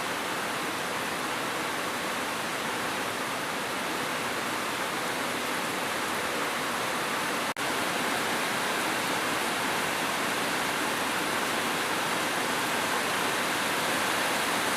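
Steady, even hiss of heavy rainfall, with a momentary dropout about halfway through.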